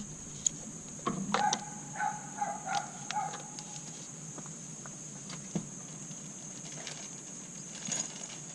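A sharp click, then a run of short squeaks and light clicks from engine parts and tools being handled.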